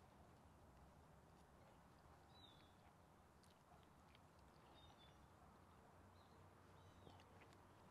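Near silence, with a few faint, short bird chirps, each a quick falling note.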